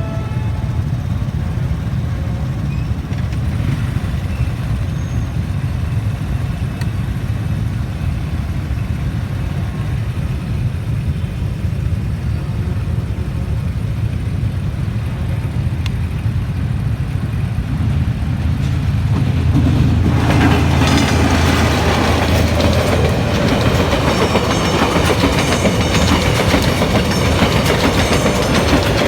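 A train running on the tracks: a steady low rumble that grows louder and fuller about twenty seconds in as the noise of the wheels on the rails rises.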